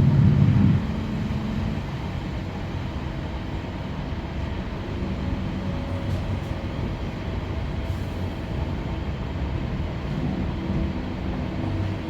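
Steady low hum and rumble heard inside a Class 323 electric multiple unit as it runs into its terminus.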